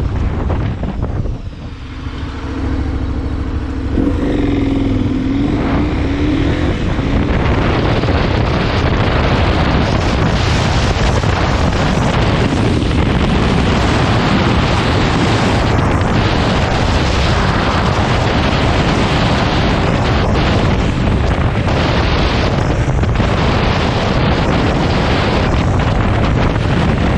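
Heavy wind rush buffeting the microphone on a moving vehicle, with road and engine noise beneath it. The noise drops briefly near the start, then a short wavering engine tone rises above it before the steady rush takes over.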